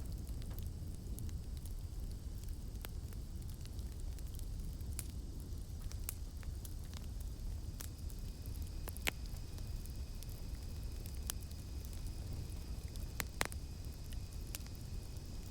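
Campfire burning with a low steady rumble and frequent small crackles, with two louder wood pops, one about halfway and one near the end. A steady high-pitched insect drone, cicadas in the night-forest background, becomes clearer in the second half.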